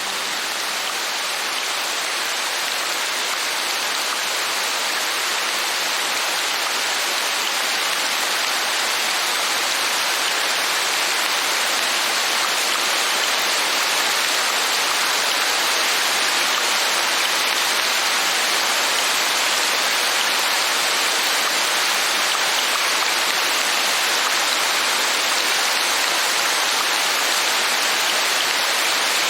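Steady rain falling, an even hiss that swells slightly at first and then holds level.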